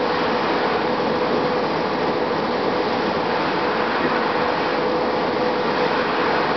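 2007 Gillig Advantage low-floor bus with a Cummins ISM diesel and Voith D864.5 transmission running steadily: an even drone with a steady hum through it.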